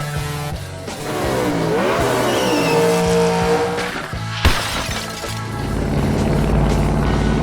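Rock background music with dubbed-in car sound effects: a car sound that swoops up and down in pitch, a single sharp crash with breaking glass about four and a half seconds in, then a low engine rumble.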